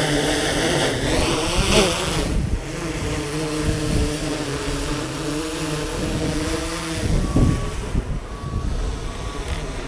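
Gusty wind buffeting the microphone over a steady motor hum whose pitch slowly wavers, with three short beeps near the end.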